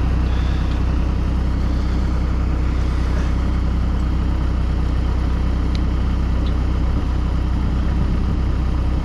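Heavy equipment engine idling steadily, with a couple of faint clinks in the middle.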